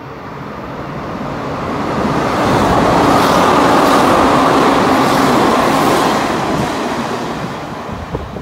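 Hanshin 8000 series electric train passing through the station at speed without stopping: the rush of wheels on rail builds over the first two seconds, holds loud for about four seconds as the cars go by, then fades as the train moves off.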